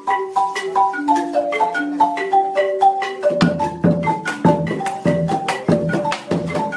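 Marimba de chonta playing a quick, repeating melody of short wooden notes. About three and a half seconds in, deep drum strokes join in a steady rhythm.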